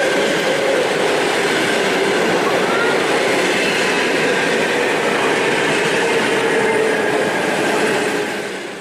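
Suburban electric train running: a steady loud rolling noise with faint whining tones that drift slightly in pitch, dropping away near the end.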